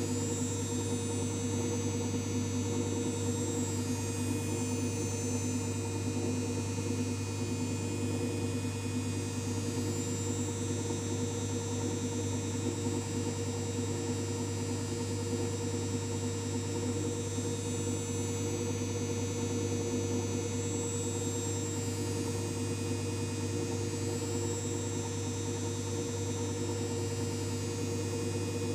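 LG 5 kg washing machine running with a steady hum, with a faint high whine above it that slowly wavers.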